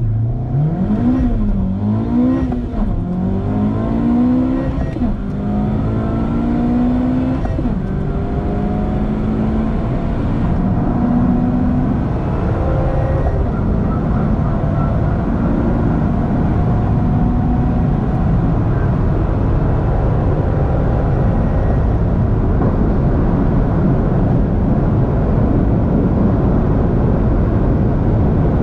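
2021 Honda Civic Type R Limited Edition's 2.0-litre turbocharged four-cylinder engine at full throttle, revs climbing and dropping back at each upshift: three quick shifts in the first few seconds, then longer pulls through the higher gears. From about twelve seconds in it holds a steady high-speed run, engine blended into a constant road and wind roar.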